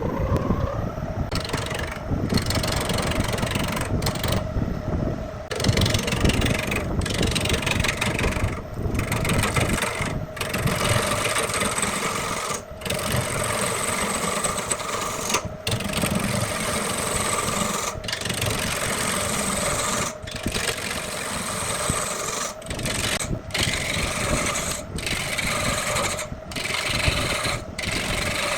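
Wood lathe running with a turning tool scraping and cutting the spinning wood, over a steady motor hum. The sound drops out for an instant every second or two.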